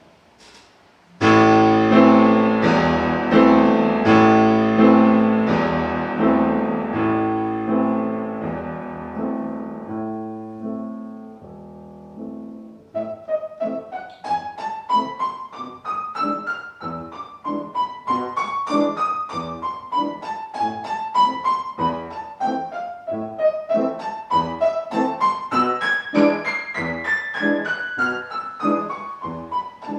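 Piano music. About a second in, loud sustained chords are struck and slowly fade. From about 13 s a quicker, lighter treble melody runs up and down over evenly paced notes.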